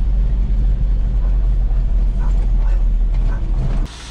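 Truck engine running, a steady low drone that cuts off suddenly near the end.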